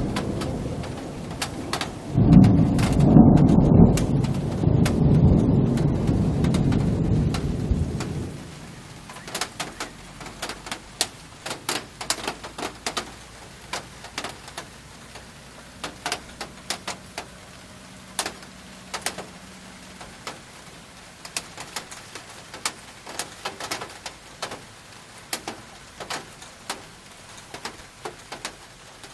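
Thunder rumbling loudly for the first eight seconds, loudest about two seconds in, then fading into rain, with drops tapping sharply and irregularly on a surface.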